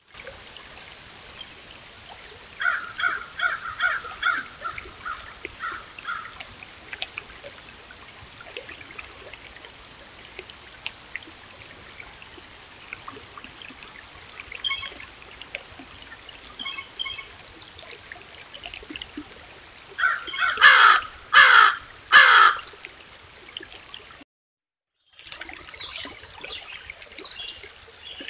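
A bird calling over a steady rippling stream: a rapid run of calls about three seconds in, a few fainter short series midway, and four loud calls about twenty seconds in, the loudest sounds in the stretch.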